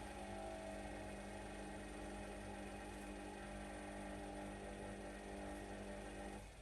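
Whirlpool washing machine's drum motor humming steadily as it turns the drum during the anti-crease phase between spins, then cutting off suddenly near the end.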